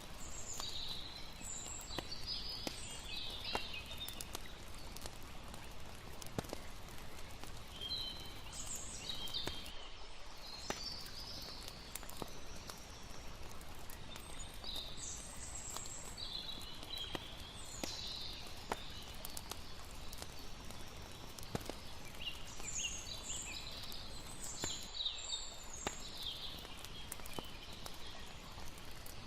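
Layered night-time ambience of a steady rush of flowing water under a crackling campfire, heard as scattered sharp pops, with bursts of high chirping from night insects or birds every few seconds.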